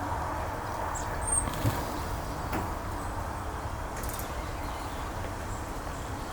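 Steady low background rumble, with two brief high bird chirps about a second in.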